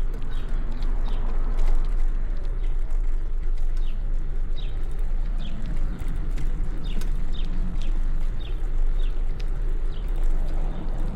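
Steady low wind and road rumble from riding a bicycle, with a string of short high chirps, about two a second.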